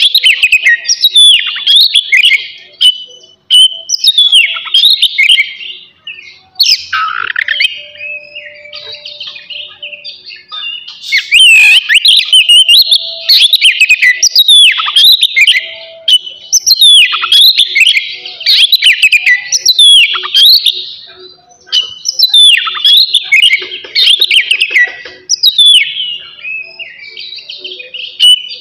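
Oriental magpie-robin singing a loud, fast run of varied whistles and chirps, many notes sweeping downward. The song thins out and softens for several seconds near the start, then comes back at full strength.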